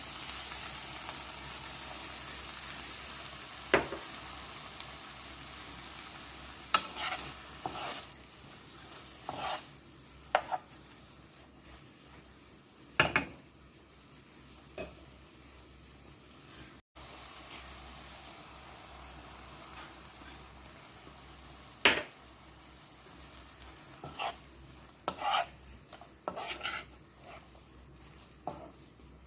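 Chicken gizzards and vegetables sizzling in a pan as they are stir-fried. A utensil clacks and scrapes against the pan about a dozen times. The sizzle is strongest at first and dies down after about eight seconds.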